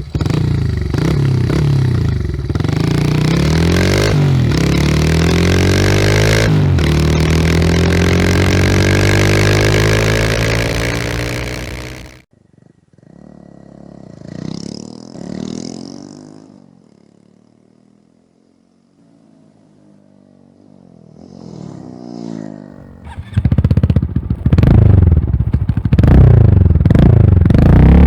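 Honda Monkey 125's single-cylinder four-stroke engine through an OVER Racing stainless up-mount exhaust, running loud with its pitch rising as it revs. About twelve seconds in it drops off sharply and is heard only faintly, swelling and fading twice, then is loud again for the last few seconds.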